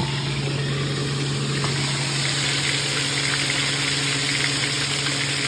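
Pieces of fish frying in oil in a skillet, sizzling with scattered crackles that pick up about two seconds in, over a steady low hum.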